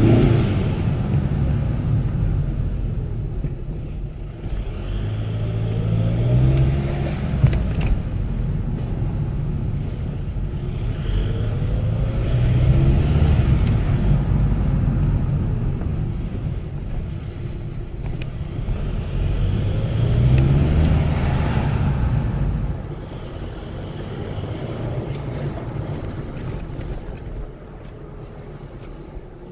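2.0 BKD turbodiesel car engine pulling up through the revs three times, about seven seconds apart, each with a rising tone and the fluttering 'flufluflu' turbo sound the owner calls the wastegate, then easing off. The engine is healthy and in factory configuration, with no blow-off simulator fitted.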